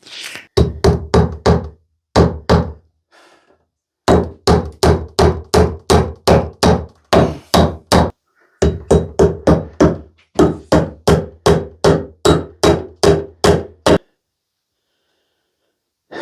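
Hammer blows in quick series, about three a second, in several runs broken by short pauses, each blow a sharp knock with a deep thud; they stop about 14 seconds in.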